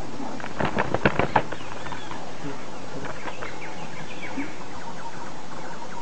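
Birds chirping in short rising and falling notes throughout, over a steady background hiss, with a quick run of about half a dozen sharp knocks about a second in.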